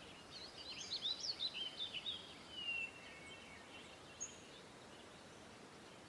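Faint songbird chirping and twittering: a run of quick rising and falling high notes over the first three seconds, then one short high note about four seconds in.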